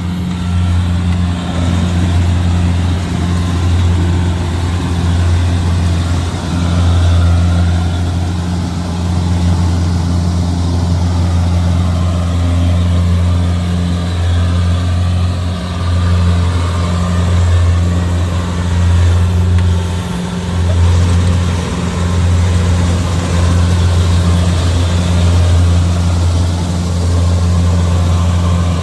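Kubota DC-70G Plus combine harvester running steadily, its diesel engine giving a constant low hum that rises and dips slightly.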